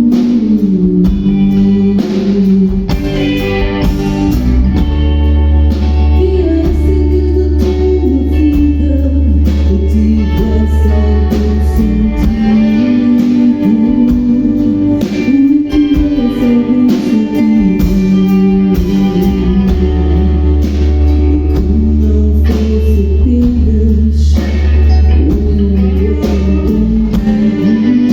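Rock band playing live: guitars, bass and drum kit, with singing. Long low bass notes are held through two stretches, in the first half and again in the second.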